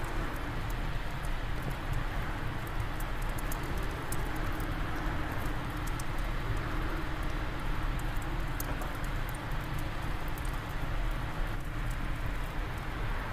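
Wood fire crackling in a fireplace, with many small sharp pops scattered over a steady rush of wind.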